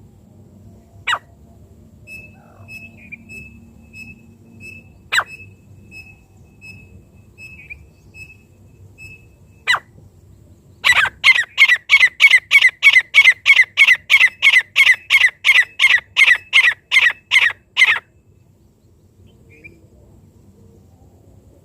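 Francolin (teetar) calling. Three single sharp notes come a few seconds apart, under a faint repeated high peeping. Then a loud, rapid run of about twenty calls, roughly three a second, lasts some seven seconds and stops abruptly.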